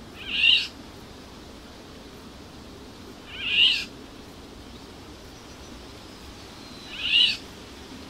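A bird calling: three short, sharp calls about three and a half seconds apart, over a faint steady background hiss.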